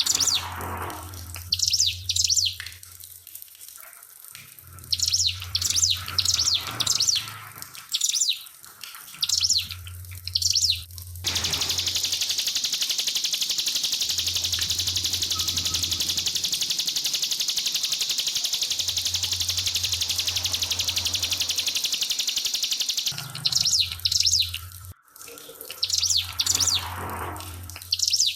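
Ciblek (bar-winged prinia) singing in quick, sharp repeated bursts of high notes. About eleven seconds in, a loud steady trickle of running water cuts in and covers the song for about twelve seconds, then stops suddenly and the bird song returns.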